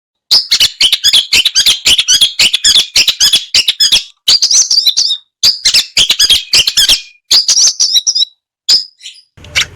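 Long-tailed shrike (cendet) singing loudly in rapid phrases of sharp chirps, trills and mimicked calls, broken by short pauses.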